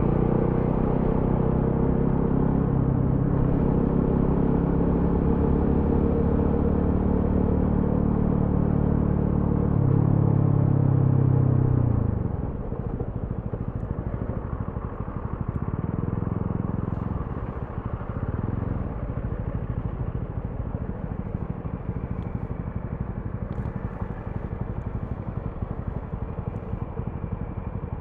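Single-cylinder engine and exhaust of a TVS Apache RTR 200 4V motorcycle under way. It runs steadily under throttle and gets a little louder about ten seconds in. About twelve seconds in the throttle closes and the engine drops to a lower, quieter running, with a couple of brief throttle blips.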